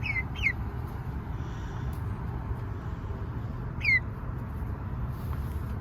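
Young chicken chick peeping: two quick downward-sliding peeps at the start and a louder third about four seconds in, over a steady low rumble of wind.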